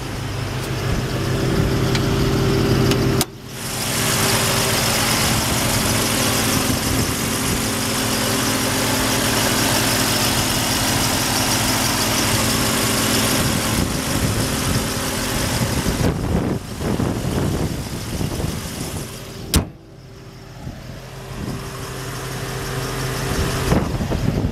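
Twin-turbo Nissan 350Z's V6 idling steadily. A broad hiss lies over the idle for much of the time, and there is one sharp click about twenty seconds in.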